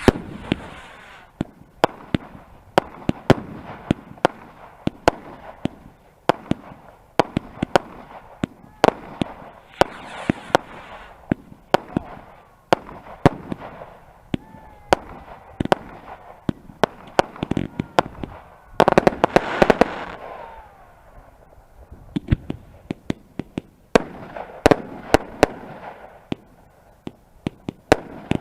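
Fireworks display: a rapid, irregular series of sharp bangs and cracks, mixed with hissing bursts that swell up, the loudest about two-thirds of the way through, with a brief lull shortly after.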